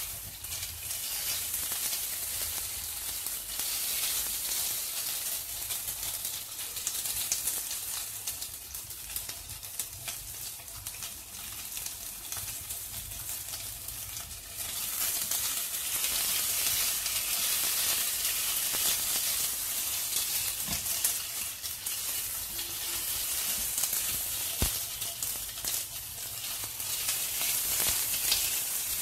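Marinated prawns sizzling in hot oil in a non-stick wok, stirred and scraped now and then with a spatula. The sizzle grows louder about halfway through.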